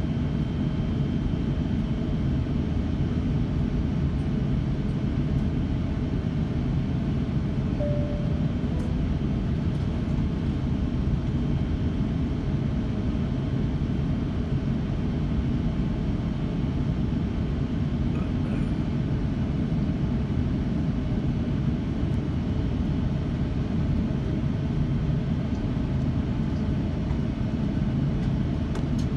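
Steady low rumble of the Airbus A350-900's cabin while the airliner is on the ground at departure, with a faint steady high tone running through it.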